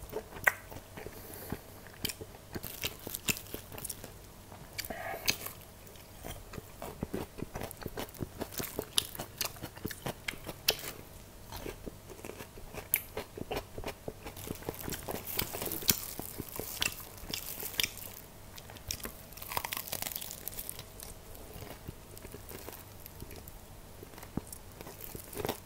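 A person chewing and biting crispy fried chicken: a dense run of crunches and wet mouth clicks, busiest midway.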